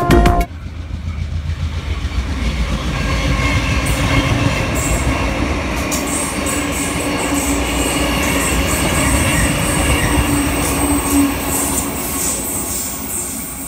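Double-deck electric suburban trains running through a station, wheels clicking rapidly over rail joints over a steady low motor hum. A thin high whine joins from about six seconds in.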